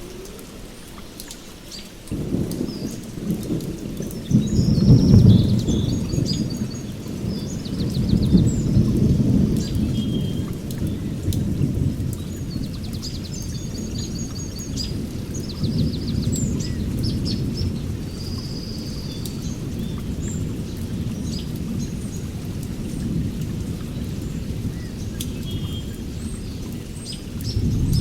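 Songbirds chirping and trilling throughout, over a low rumble that sets in about two seconds in, swells twice early on, then carries on more steadily.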